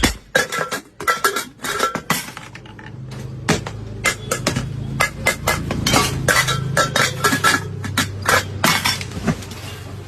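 Metal tapping and clinking in quick, irregular strokes, with a steady low hum underneath through the middle.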